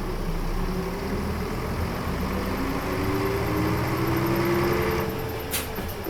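Diesel engine of a 2004 KL-UA452KAN city bus accelerating away from a stop. Its pitch rises steadily, then drops at a gear change about five seconds in, and a couple of sharp clicks follow.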